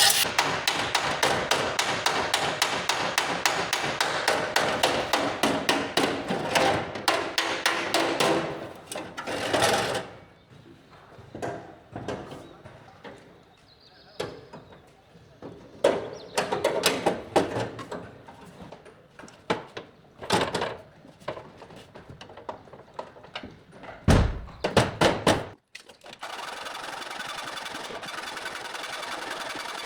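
Bodywork striking on metal: a fast run of knocks for about the first ten seconds, then scattered single knocks with pauses between, then a steady noisy tool running over the last few seconds.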